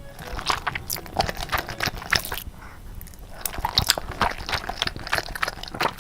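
Close-miked eating sounds of a person eating noodles: irregular biting and chewing with many sharp, wet mouth clicks and short crunches.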